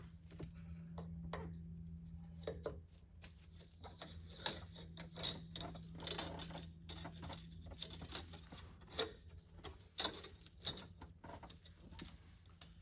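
Irregular small metallic clicks and scrapes of safety wire being worked by hand to lock an aircraft engine's oil filter, over a steady low hum.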